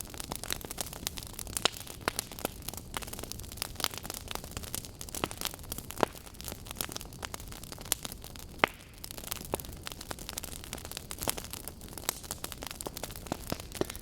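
Burning wood logs crackling and popping, irregular sharp snaps over a steady hiss, with two louder pops about six and eight and a half seconds in.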